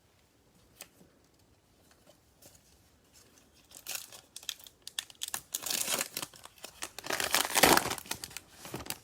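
Cellophane wrapper of a football card cello pack being torn open and crinkled by hand, starting about four seconds in and loudest near the end.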